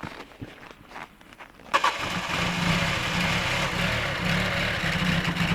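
Car engine cranked by its starter motor, turning over with a steady pulsing churn for about four seconds without catching, starting about two seconds in after a few faint clicks: the frozen engine won't start.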